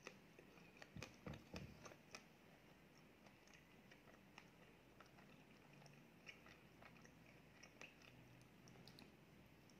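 Faint mouth sounds of chewing a soft filled crepe: wet smacks and clicks, with a cluster of louder smacks about a second in and a fresh bite into the crepe near the end.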